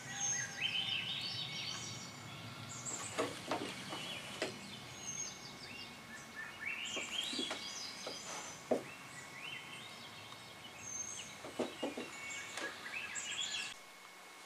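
A songbird singing a repeated phrase of quick notes that step up in pitch, about every three seconds, over low outdoor background noise with a few soft knocks. The outdoor sound cuts off shortly before the end.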